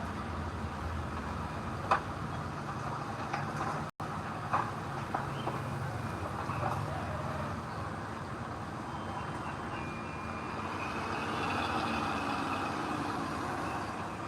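Heavy diesel earthmoving machinery running steadily, with a few sharp metallic clanks in the first five seconds and a brief break in the sound about four seconds in. A faint high whine comes in over the engine in the second half.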